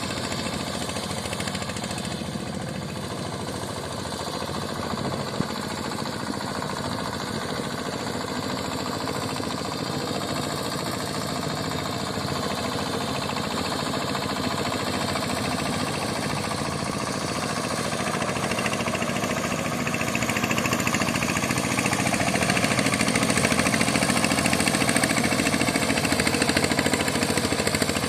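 Tractor engine driving a boat, running steadily, getting louder about two-thirds of the way through and staying louder.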